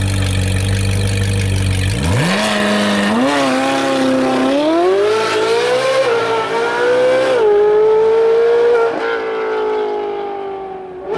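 Ferrari 458 Speciale's V8 with an Fi aftermarket exhaust idling, then accelerating hard about two seconds in, the revs climbing in steps through several gear changes. The engine note holds and then fades near the end as the car pulls away.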